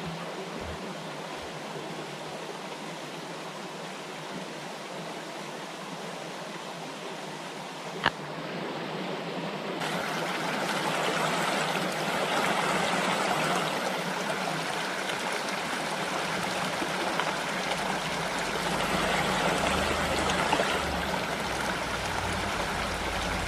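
Steady rushing of flowing water, growing louder from about ten seconds in. A single sharp click about eight seconds in.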